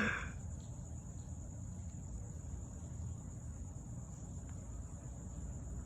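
Steady low hum of honeybees massed at the hive entrance, with a steady high-pitched insect trill in the background.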